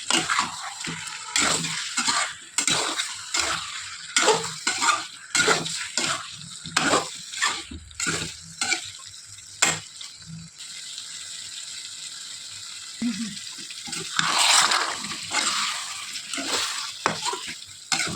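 A utensil stirring and scraping food in a frying pan, with irregular clinks and scrapes and a steady hiss of frying. The scraping eases off for a few seconds past the middle, leaving mostly the hiss, then picks up again.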